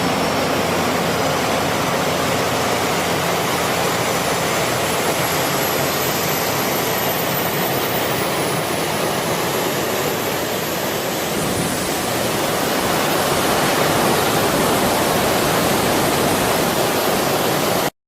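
Jet engine of a Boeing T-7A Red Hawk running, a steady roar with a faint high whine slowly rising in pitch; it cuts off suddenly near the end.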